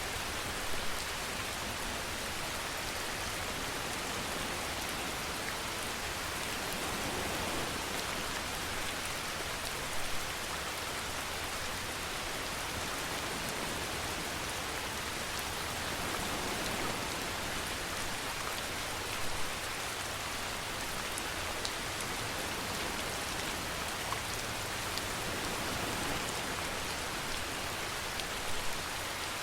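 Steady rain falling on a surface: an even hiss dotted with sharp drop ticks, with a brief louder patter about every nine seconds.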